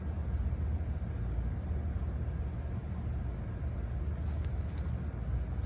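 Steady high-pitched insect trilling, a continuous unbroken drone, over a low rumble.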